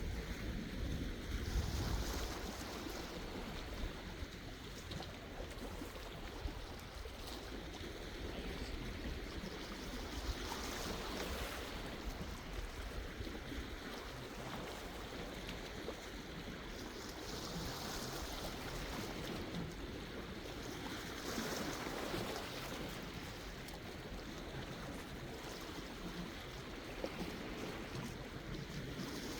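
Sea waves washing in and drawing back, the surf swelling every several seconds over a steady wash.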